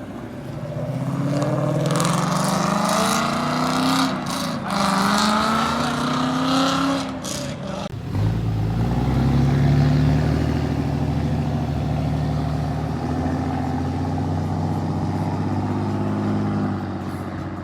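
Car engine revving up in several rising pulls, then a sudden loud, deep, steady engine note from about eight seconds in that eases slightly near the end.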